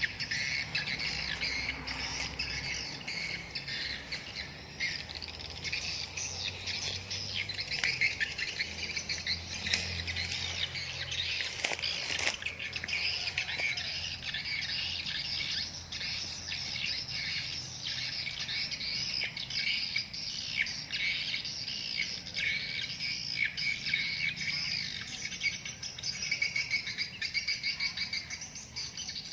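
Many swiftlets twittering and chirping together in a dense, continuous chorus, with a few sharp clicks about ten to twelve seconds in.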